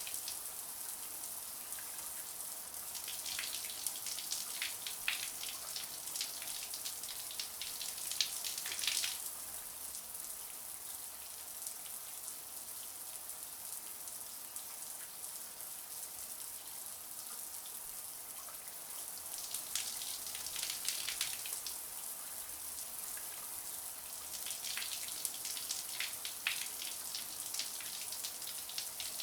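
Shower water running: a steady hiss of spray with three spells of heavier spattering, one early, one about two thirds in, and one near the end.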